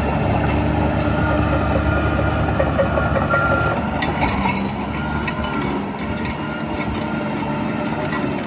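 Heavy diesel earthmoving machinery running steadily, with a few short metallic clanks and squeaks about four to five seconds in.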